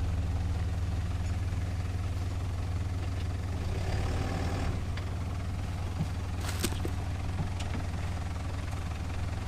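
A 4x4's engine running as a steady low drone at low revs, with a few small knocks and one sharper rattle about two-thirds of the way through.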